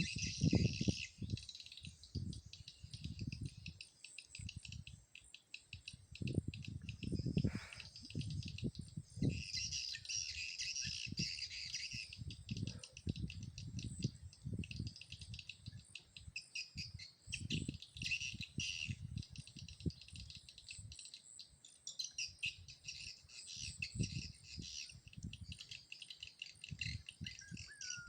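Swiftlets twittering in dense, rapid high chirps, the calls of the swiftlet house's lure sound and the birds drawn to it, with irregular low rumbling thumps underneath.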